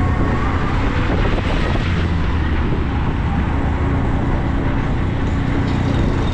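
A motor vehicle running steadily: a low engine drone with road and wind noise, unchanging throughout.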